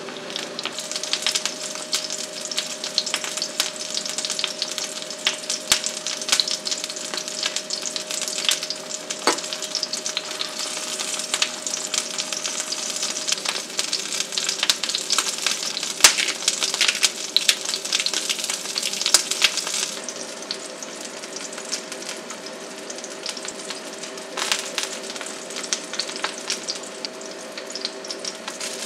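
Tomato slices frying in oil in a steel pan: a steady sizzle full of small crackles and pops over a steady low hum, easing a little about two-thirds of the way through.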